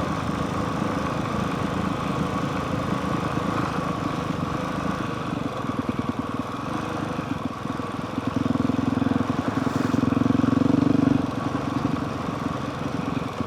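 Honda CRF450R dirt bike's single-cylinder four-stroke engine running under way, a steady rapid pulse. It grows louder for a few seconds past the middle, then eases back.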